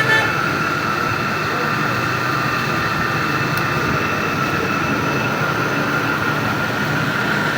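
A repaired 2 HP single-phase electric water pump motor running steadily, a constant whine over a low hum.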